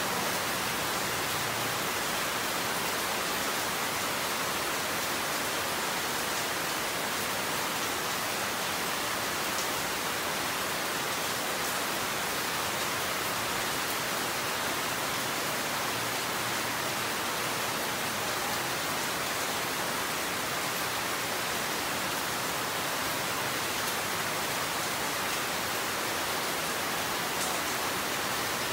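Steady rain, an even hiss that keeps up without let-up.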